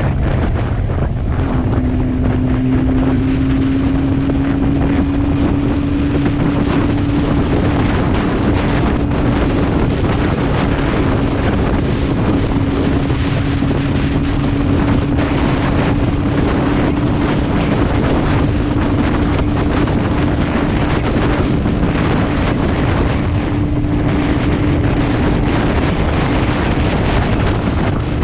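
Motorcycle riding at steady speed, wind rushing over the microphone with the engine's hum underneath. The engine note climbs slightly about a second and a half in, then holds steady.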